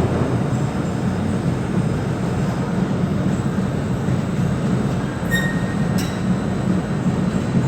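Potato harvesting machinery running steadily: a constant engine drone with a rumbling rattle of moving parts. A short beep about five seconds in, and a click about a second later.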